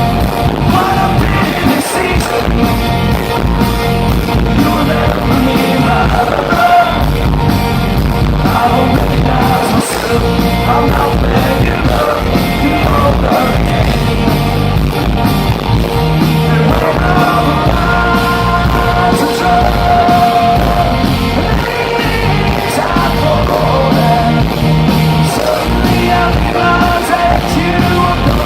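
Live rock band playing loudly with a male lead singer singing over guitars and drums.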